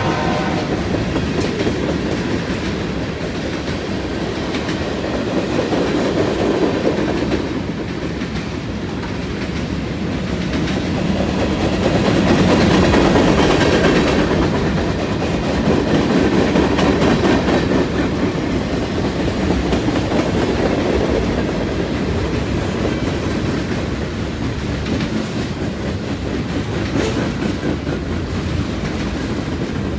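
Freight train rolling past close by, its wheels clattering steadily over the rails with a deep rumble that swells and eases. The last of a locomotive horn blast cuts off just at the start.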